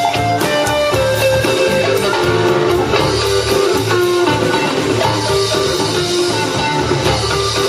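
Live blues band playing an instrumental passage: electric guitar lead lines over drums.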